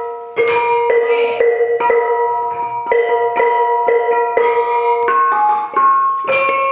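Bonang, the Javanese gamelan's row of small bronze kettle gongs, struck with beaters about twice a second, each stroke ringing. One note is repeated, then the playing moves to higher notes near the end.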